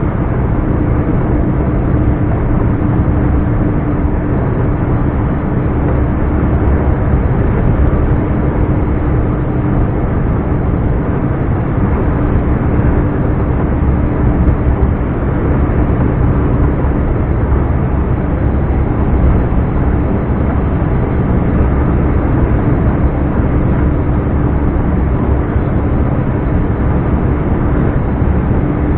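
Scania R420 truck's inline-six turbodiesel engine running steadily while driving, a constant low drone with a steady tone held through, without revving up or down.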